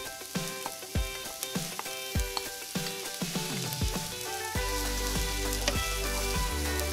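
Diced onion sizzling as it fries in hot oil in a nonstick pan, stirred with a wooden spatula; the sizzle grows stronger about halfway through. Background music with a steady beat plays throughout.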